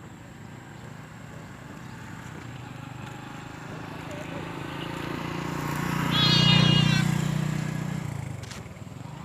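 A motor engine passes by, growing louder to a peak about six and a half seconds in, with a brief whine at its loudest, then fading away.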